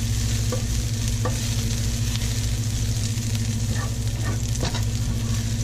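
Pounded garlic and green chilies sizzling in hot oil as they are stir-fried, with a few sharp clicks from the stirring utensil, over a steady low hum.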